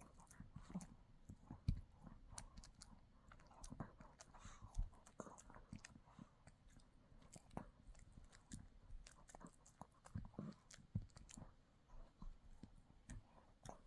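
A dog gnawing and chewing on a hard chew treat: irregular sharp clicks and crunches of teeth on the chew.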